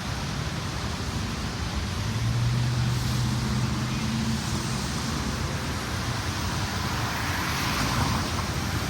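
Road traffic noise from passing vehicles, with a low engine hum that rises for a few seconds a couple of seconds in.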